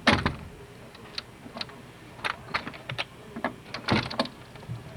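A series of irregular sharp knocks and clicks, loudest at the very start and again about four seconds in.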